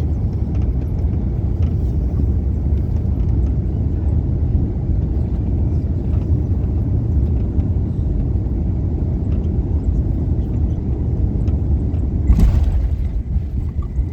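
Steady low rumble of a moving vehicle, with a brief rush of noise about twelve seconds in.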